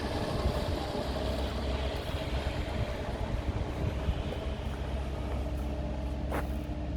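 Kohler 2504 TCR turbodiesel engine of a JCB 86C-2 mini excavator running steadily. A short sharp tick is heard about six seconds in.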